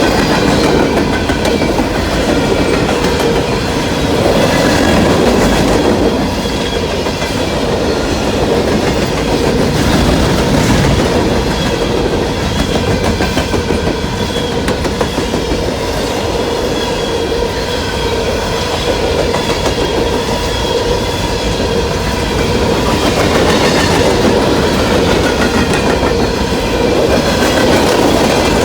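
Freight train passing at speed: steady, loud rolling noise of many cars' wheels on the rails, with a continuous high ring running through it.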